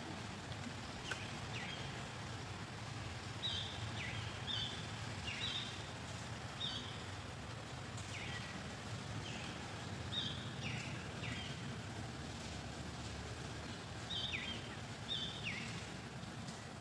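A bird calling in short high chirps, two or three notes at a time and repeated every couple of seconds, over a low steady background rumble.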